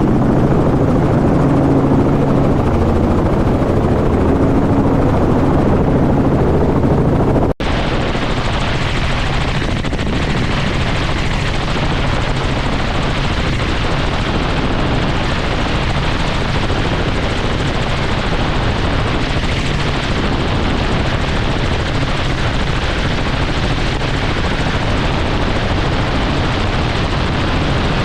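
Helicopter running steadily, with a low rotor and engine hum. The sound cuts abruptly about seven seconds in and resumes as a more even rushing noise.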